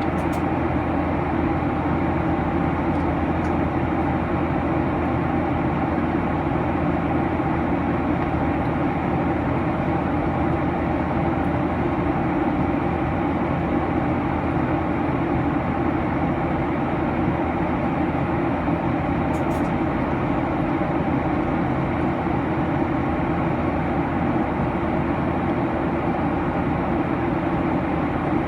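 Steady cabin noise of a Boeing 737-900 in flight, heard from the front row: a constant rush of airflow over a low engine drone.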